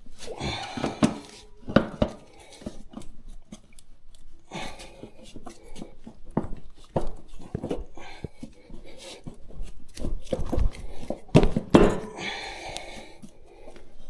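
Hand work on a motorcycle tyre and wheel rim: irregular clinks, knocks and scrapes of tyre levers against the rim and the tyre's rubber as the bead is worked on.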